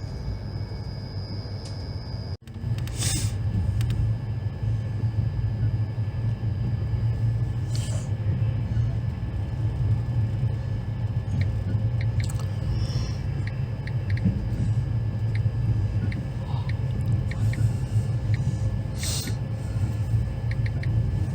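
Indian Railways passenger train running, a steady low rumble from the moving coach. It cuts out abruptly about two seconds in and comes back louder, with a few brief swishes and faint light clicks over it.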